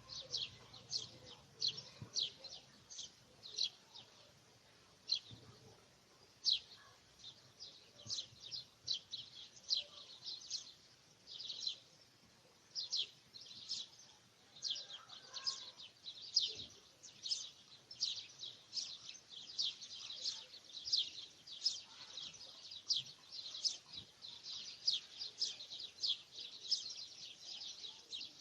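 Birds chirping: a steady run of short, high notes, each sweeping down in pitch, several a second and busier in the second half.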